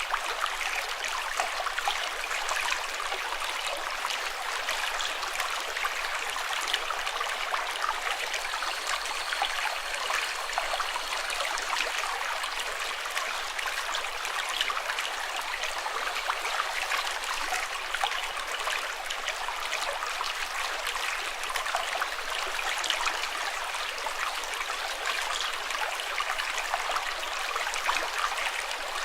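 Running water, a steady babble of flowing water dotted with small splashes, with no change throughout.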